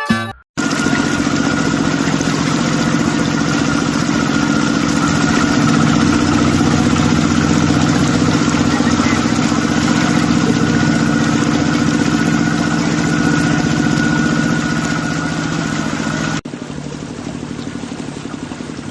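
An engine running steadily with a constant whine over it. About two-thirds of the way in it drops suddenly to a lower level and keeps running more quietly.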